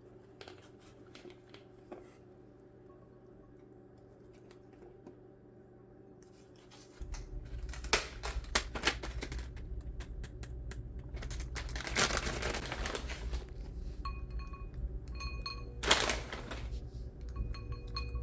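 Food preparation handling sounds: scattered clicks and knocks and brief scraping or rustling, over a low steady hum that gets louder about seven seconds in.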